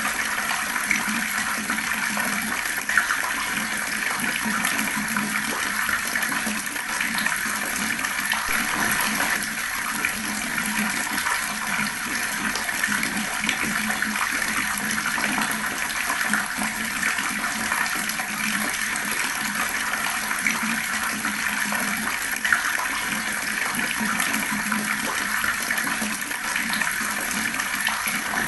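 Water flowing fast: a steady, dense rush of splashing water, with a couple of brief sharper splashes.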